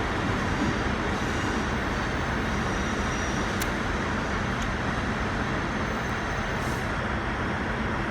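Diesel passenger train running steadily beside the platform: a continuous engine rumble and noise that holds at an even level.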